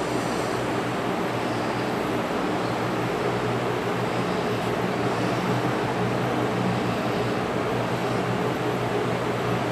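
A steady mechanical hum with a constant rushing noise that holds at one level throughout.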